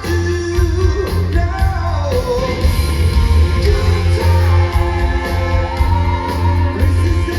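Live rock band playing: loud drums, bass and electric guitar with a lead vocal over them.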